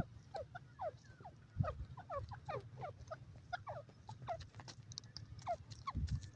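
Grey francolin (dakhni teetar) giving a rapid series of soft, short chirps, each sliding downward in pitch, several a second, with a couple of brief low thumps.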